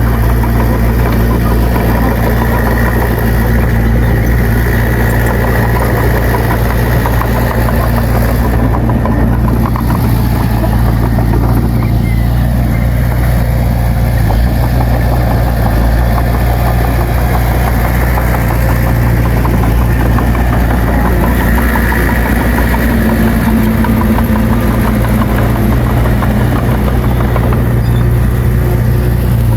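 Heavy diesel engine of earthmoving equipment running steadily and loudly, with an even low drone.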